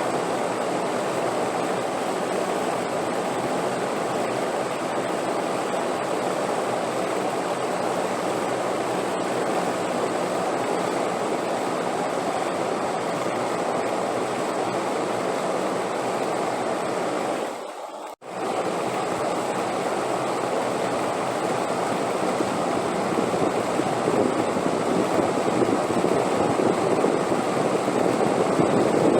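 Steady rushing wind. It drops out briefly for under a second about eighteen seconds in, then comes back and grows a little louder.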